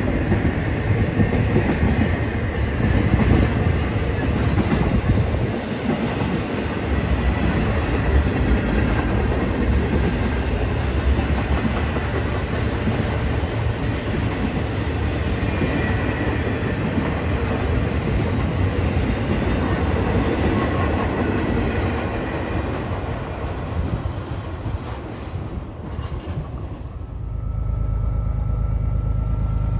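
Intermodal freight cars rolling past close by, the steady rumble and clatter of steel wheels on the rails. About 27 seconds in this gives way to the low, steady drone of diesel locomotives approaching from a distance.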